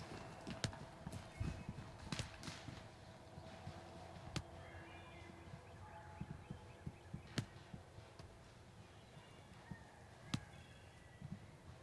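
Faint irregular soft thumps and rustles, like steps in dry leaves, with a few sharp clicks and brief high bird chirps now and then.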